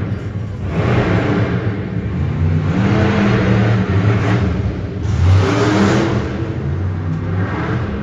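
Monster truck engine revving hard in repeated surges during a freestyle run, with about three big swells, the loudest a little past halfway.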